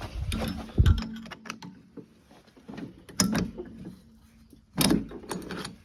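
Clicks and knocks of engine parts and tools being handled and set down on a workbench, with a heavy thud about a second in and two sharper knocks in the second half. A faint steady hum comes and goes underneath.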